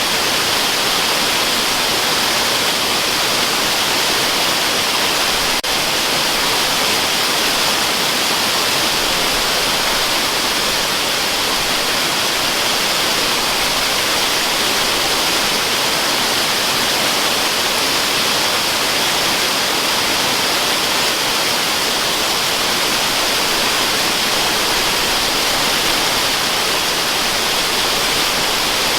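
Waterfall rushing as a steady, even hiss, used as white noise, brightest in the upper range.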